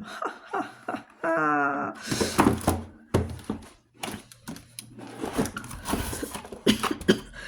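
Unboxing handling sounds: rustling packaging and soft knocks and thunks as kit contents are handled and moved on a table.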